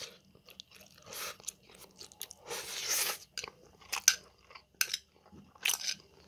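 A person chewing and eating spicy stir-fried instant noodles, close to the microphone: short, irregular chewing sounds with one longer noisy stretch near the middle.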